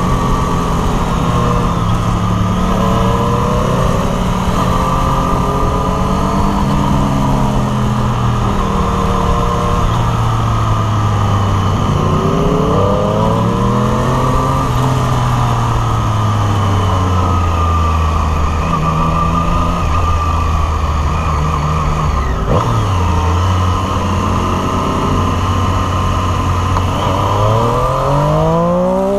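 2018 Triumph Street Triple RS's 765 cc inline-three engine, its pitch rising and falling again and again with the throttle through a run of bends, over a steady rush of wind.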